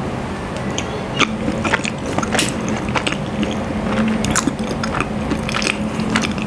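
Close-miked chewing of a soft bread roll with chocolate filling, with scattered wet mouth clicks and smacks.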